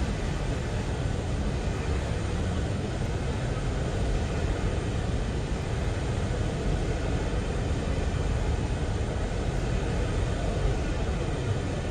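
Train rolling past, a steady low rumble with no horn or bell.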